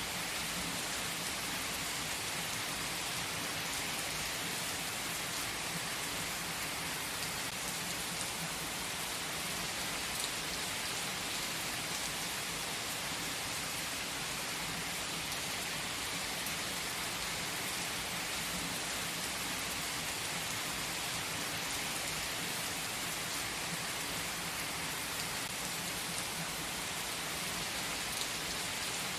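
Steady rain: an even hiss with faint scattered drops that does not change in level.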